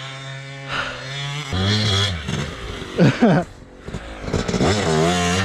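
Dirt bike engine running steadily, then revving in short throttle blips, with quick rises and falls in pitch about three seconds in and again near the end.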